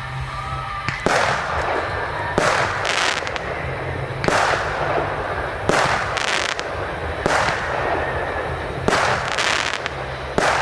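Fireworks going off: about ten sharp bangs at uneven intervals, each trailed by a short hiss.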